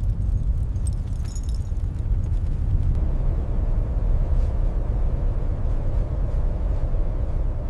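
Steady low rumble with no distinct events, a little fuller from about three seconds in.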